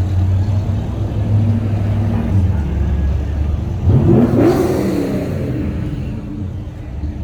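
A car engine running at low revs, then revved up once about four seconds in, its pitch climbing, before easing back.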